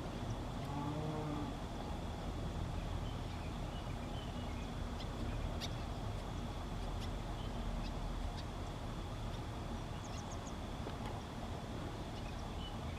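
White-breasted waterhen giving a short pitched call about a second in, over steady outdoor background noise with a constant high thin tone and scattered faint high chirps and ticks.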